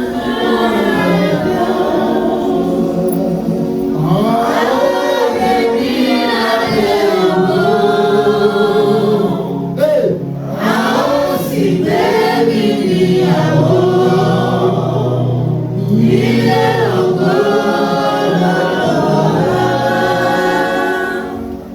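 Church choir and congregation singing a gospel worship song.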